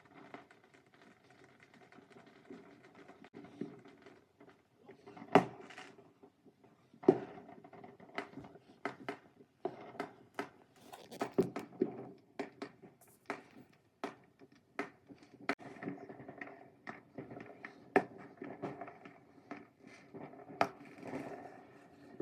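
Distant fireworks going off: irregular pops and bangs with crackling between them, over a faint steady hum. The two loudest bangs come about 5 and 7 seconds in.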